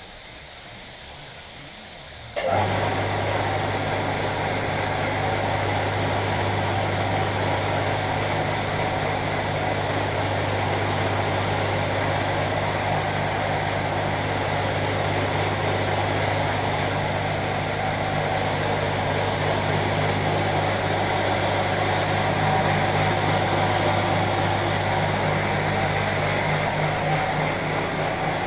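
An electric air compressor switches on abruptly about two seconds in and runs steadily with a low mains hum.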